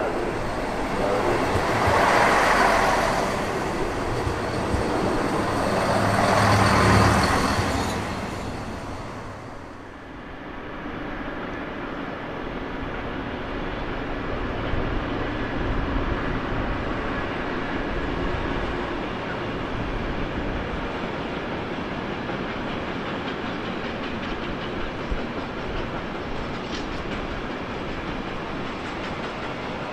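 A train running through the station, with two loud swells of noise in the first eight seconds, then a steadier, lower rumble.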